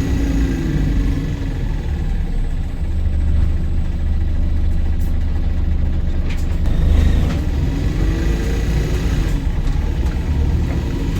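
Volvo B5LH hybrid double-decker bus heard from inside while moving: steady low engine and road rumble, with the electric drive's whine falling away over the first second as it regenerates under braking, then rising again from about seven seconds in as the bus accelerates.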